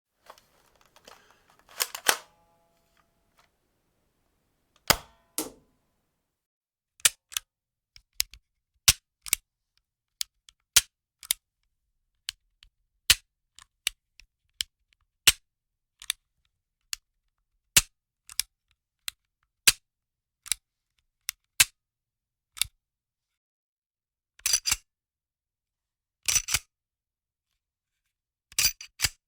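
A foam-dart toy gun cocked and fired, then a gun dry-firing: a long string of single sharp clicks, one every half second to a second, the mechanism snapping on an empty chamber. Near the end, three short rattling bursts of a gun slide being worked.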